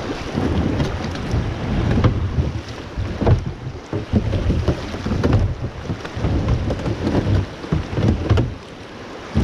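Wind buffeting an action camera's microphone over the sloshing and splashing of water around a small kayak being paddled on a creek, in uneven surges with a few light knocks. It dips quieter near the end.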